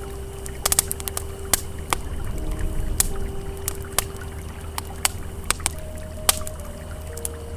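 Campfire crackling, with sharp, irregular pops over the steady low rush of a flowing river. Soft held ambient synth tones sound quietly beneath.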